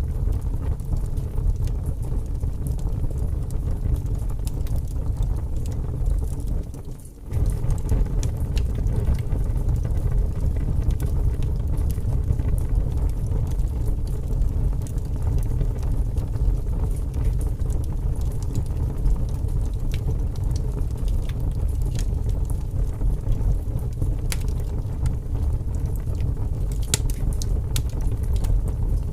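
Wood fire burning in a fireplace: a steady low rumble with scattered crackles and pops, a few sharper ones near the end. The sound briefly drops away about seven seconds in.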